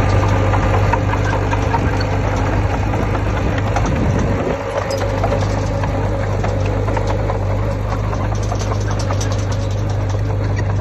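Heavy diesel engine of earthmoving machinery running steadily with a low drone and some rattling, with a brief dip about four seconds in.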